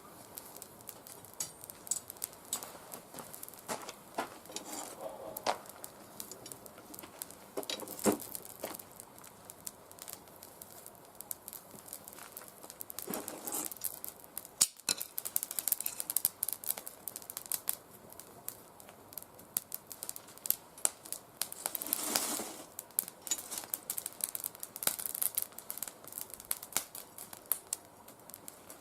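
Oak twigs, not fully seasoned, burning in a fire pit, crackling with frequent sharp pops and clicks. Twice, about halfway and again near the end of the second third, a short rush of noise rises over the crackling.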